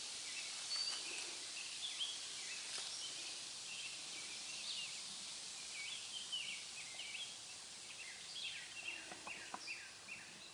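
Birds singing, many short chirps throughout over a faint steady hiss.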